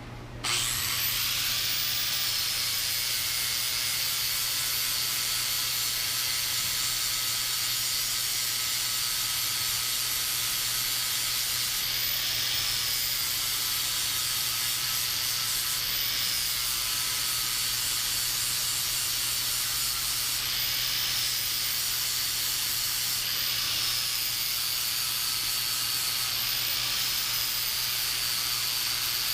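High-speed die grinder spinning up about half a second in and running with a steady high whine and hiss. Its pitch dips and recovers about five times as it bites into the metal top of a factory LS truck fuel pressure regulator being ground open.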